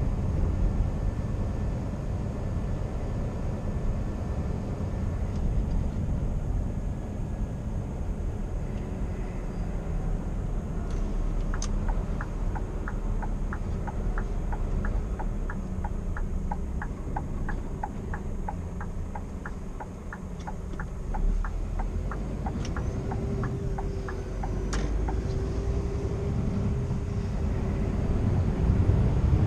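Steady low engine and road rumble inside the cab of a 2016 Scania R490 truck on the move. In the middle, an even ticking runs at about two ticks a second, typical of the turn-signal indicator, starting and ending with a single click.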